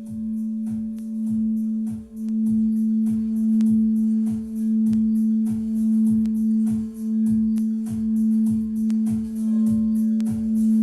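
A crystal singing bowl holding one steady, unbroken tone while a drum is struck about twice a second in an even, steady beat.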